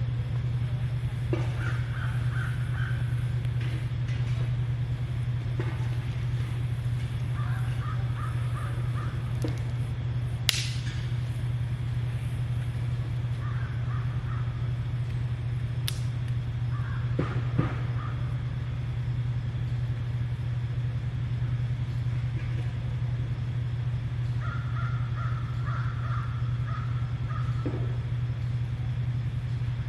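Bird calls in short series of repeated notes, coming about five times, over a steady low hum. Two sharp clicks sound about ten and sixteen seconds in.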